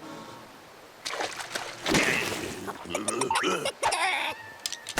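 Cartoon soundtrack with a character's wordless voice sounds, exclamations and noises rather than clear words, starting about a second in.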